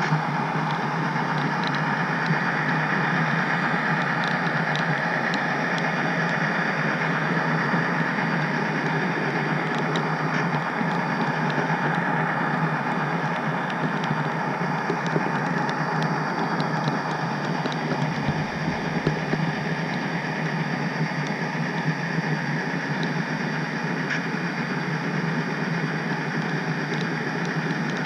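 HO scale model train running steadily on the track, with a continuous rolling rumble of wheels and a few faint clicks.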